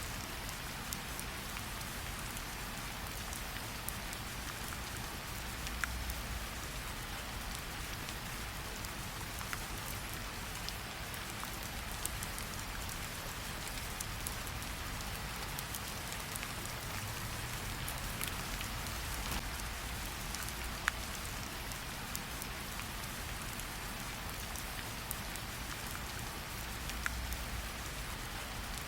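Steady rain falling, with scattered sharp clicks and pops through it.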